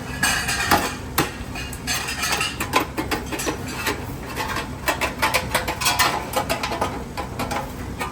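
Irregular metallic clattering and tapping: many light metal-on-metal knocks, several a second, over a steady low background hum.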